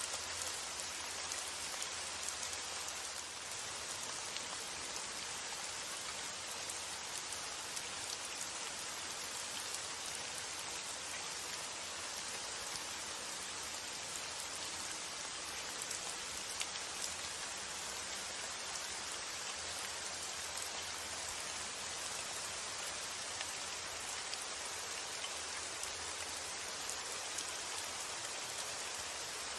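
Steady rain falling, a dense even hiss with scattered individual drops ticking through it.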